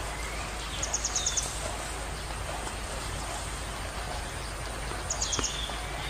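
Open-field ambience with a steady hiss, and a bird calling twice: a quick run of five or six high chirps followed by a short falling note, about a second in and again near the end.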